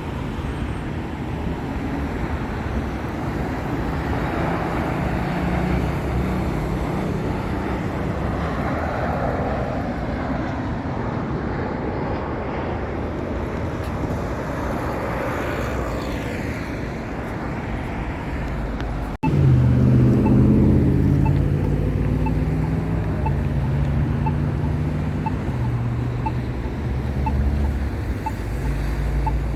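Steady low engine and road rumble of a motor vehicle. It breaks off abruptly about two-thirds of the way through and comes back as a steadier low drone, with faint regular ticks about once a second.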